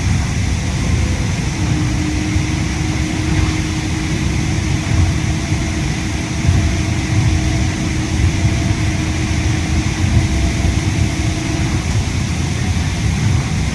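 Steady running noise inside a Yui Rail monorail car: a low rumble under an even air-conditioning hiss. A steady humming tone joins about two seconds in and stops near the end.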